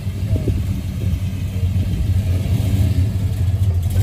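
A car engine running nearby, with a steady, deep low rumble.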